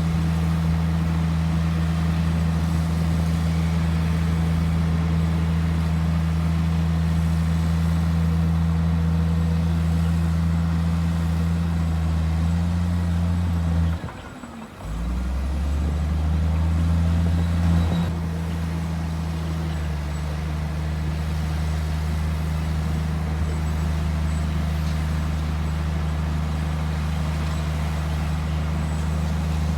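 Heavy diesel earthmoving machinery engine running steadily under load, a deep drone. It drops out for about a second about halfway through, then carries on at a slightly different pitch.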